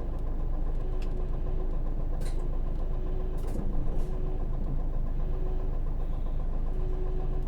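Hino KV234 city bus's 6HK1 diesel engine running steadily, heard from inside the cabin, with a few short clicks or rattles from the bus body.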